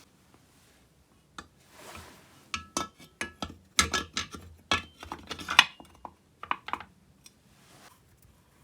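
Small metal chainsaw parts and hand tools clicking, clinking and knocking during reassembly. The strikes come in an irregular cluster from about two and a half seconds in, some with a brief metallic ring, after a short rustle or hiss.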